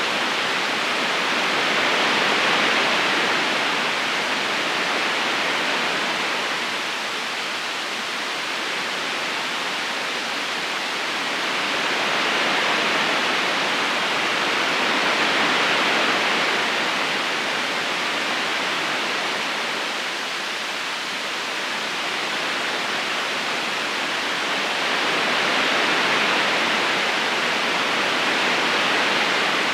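Steady rushing of a river's current flowing over stones, an even water hiss with no distinct splashes, swelling and easing slowly every ten seconds or so.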